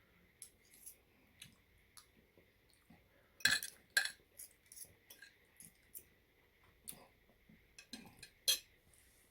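Cutlery clinking and scraping against a dish while eating: scattered light clicks, with two louder clinks about three and a half and four seconds in and another near the end.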